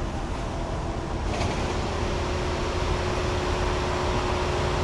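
Automatic car wash machinery running steadily, with a louder hiss coming in about a second and a half in over a steady hum.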